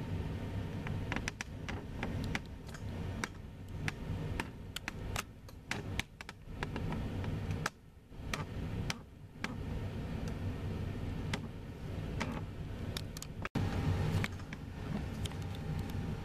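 Low, steady rumble of jet airliner engines at an airport, with scattered sharp clicks and taps over it. The sound cuts off abruptly for an instant about thirteen seconds in.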